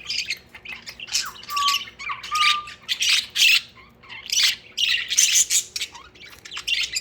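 Several pet budgerigars (budgies) chattering with rapid, harsh squawks and chirps, with two short steady whistles a second or two in.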